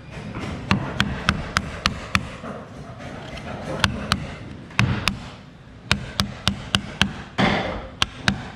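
Sharp wooden knocks and taps from hand-tool woodworking, coming in irregular runs of two to four a second, with a short scraping rush near the end.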